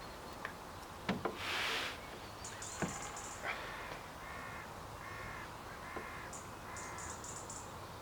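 A crow cawing five times in an even series, starting about three and a half seconds in, while a small bird chirps high above it. A few sharp knocks and a brief rush of noise come before the cawing.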